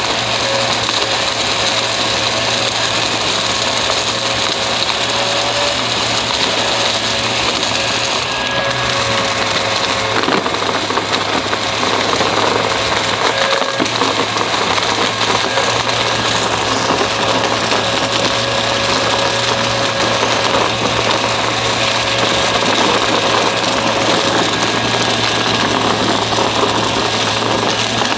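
Upright vacuum cleaner running steadily with its motor hum and whine over a constant rush of air.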